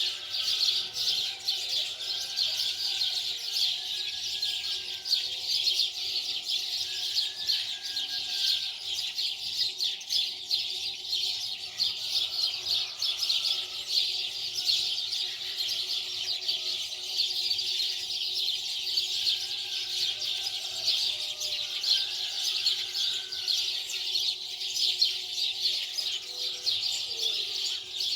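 Many small birds chirping and twittering in a dense, continuous chatter, with a faint steady hum underneath.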